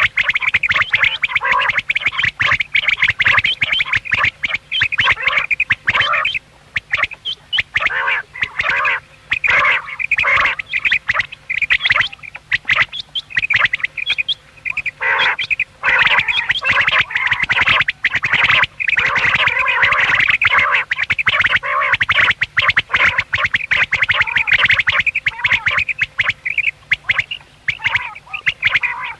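Common quail calling almost without pause: a dense run of short, harsh, quacking calls in quick succession, with a few brief breaks.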